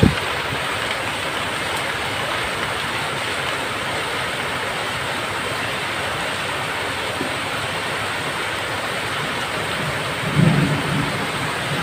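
Steady rain falling, an even hiss, with a brief low rumble about ten seconds in.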